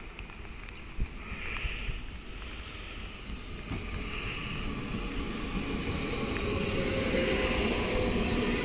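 Electric train, a DB IC2 Stadler KISS double-deck multiple unit (class 4110), approaching, its running noise growing steadily louder, with a faint steady whistle over the rumble. There is a single sharp click about a second in.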